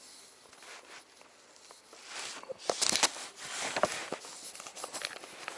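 Objects being handled: faint rustling that turns, about halfway through, into a quick run of sharp clicks, taps and rustles.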